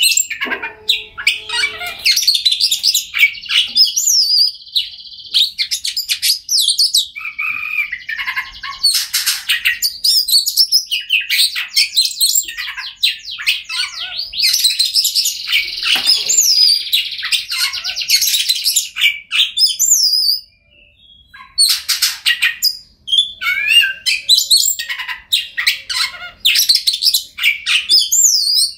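Oriental magpie-robin (kacer) singing a loud, near-continuous, varied song of clear whistles, sliding notes and fast chattering phrases, with a short pause about two-thirds of the way through.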